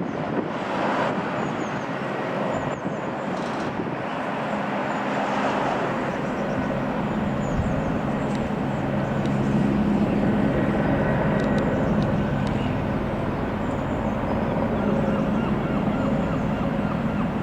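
Helicopter flying past, a steady engine and rotor drone that grows louder about ten seconds in, with birds chirping faintly.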